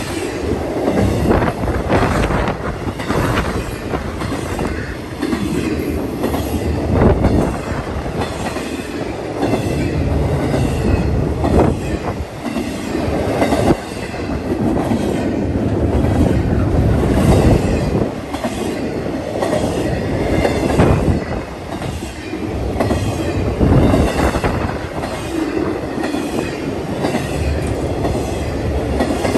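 A train rolling past, its railcar wheels clicking and knocking over the rail joints in a continuous clatter.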